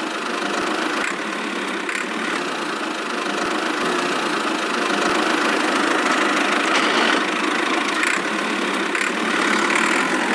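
Small motor of a DIY miniature tractor or construction machine running steadily.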